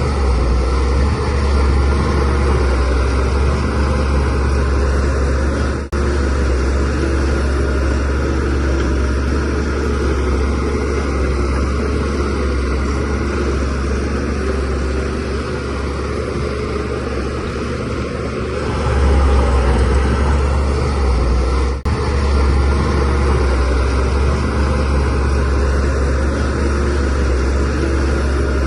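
DH17C3 crawler bulldozer's diesel engine running steadily under load as it pushes soil, with a deep continuous hum that grows louder about two-thirds of the way through. The sound breaks off for an instant twice.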